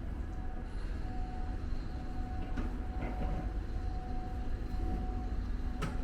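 Steady street background: a constant low rumble with a steady hum, and two sharp clicks near the end.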